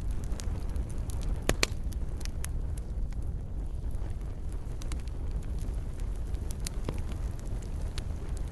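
Fireplace fire burning with a steady low rumble and scattered sharp crackles and pops, two loud pops close together about a second and a half in.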